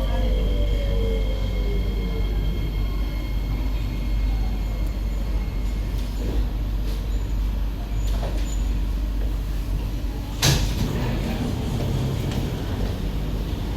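SMRT C151B train's motors whining down in pitch as it brakes to a stop, then a steady low rumble while it stands. A sudden short hiss comes about ten seconds in.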